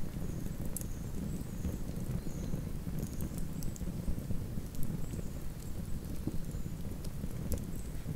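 Campfire burning with a steady low roar and irregular sharp crackles and snaps of wood.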